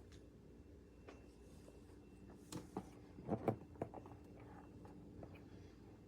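Faint steady hum of a 1500 W electric fireplace heater's fan motor running, with a few light clicks and knocks between about two and a half and four seconds in.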